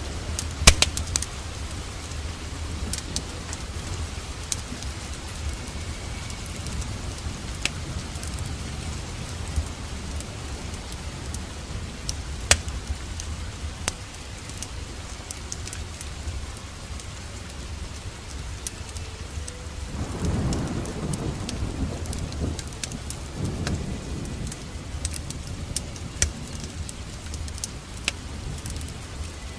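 Steady rain, with sharp pops and crackles of a wood fire in a fireplace scattered throughout. A deeper rumble swells up about twenty seconds in and lasts a few seconds.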